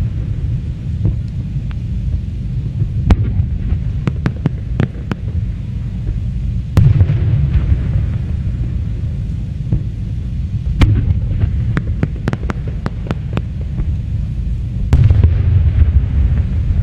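Aerial fireworks display: a continuous deep rumble of shell bursts, broken by clusters of sharp crackling pops, with heavier booms about seven and fifteen seconds in.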